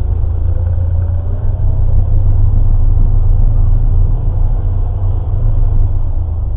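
Motor vehicle running with a loud, steady low rumble and a faint whine that rises in pitch near the start as it gathers speed.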